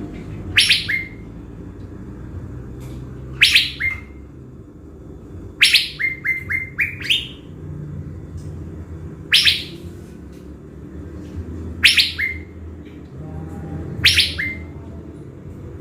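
Caged thanh lam decoy bird calling, about every two to three seconds: each call a sharp downward-sweeping note followed by a short lower note, with one call running on into a quick string of short notes. A steady low hum sits underneath.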